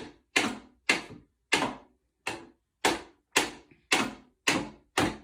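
Steady, rhythmic knocking: about two sharp taps a second, each ringing briefly before the next.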